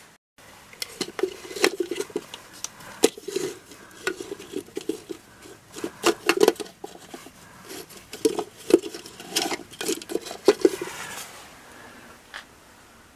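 Irregular clicks, knocks and short scrapes of hard objects being handled in stone-and-mortar masonry work, stopping about eleven seconds in.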